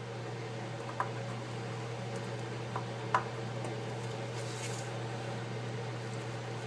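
Steady low background hum, with a few faint clicks and taps as the iPad 4's replacement glass is pressed into the frame: one about a second in and two around three seconds in.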